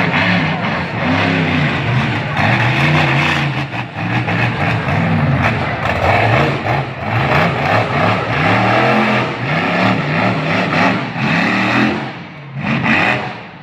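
Monster truck engine revving hard, its pitch rising and falling again and again as the throttle is blipped, easing off briefly near the end.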